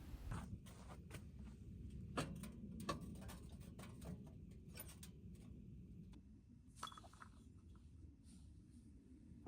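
Faint, scattered clicks and light taps, with a few sharper knocks about two and three seconds in and again near seven seconds.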